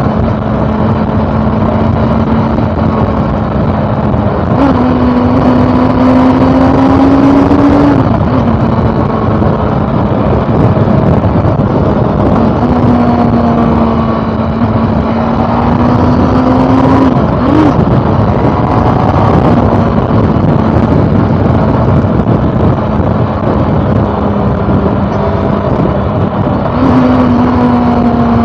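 2013 Honda CB400 Super Four Revo's inline-four engine running on the move under a heavy rush of wind. Its steady note steps up and climbs a few times as the throttle is opened: about five seconds in, again around thirteen seconds, and near the end. Each time it drops back.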